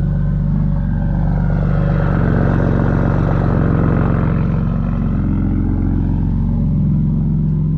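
Straight-piped BMW N54 inline-six with a single turbo, running at a steady idle. A rising and falling swell of higher-pitched rasp runs through the middle of it.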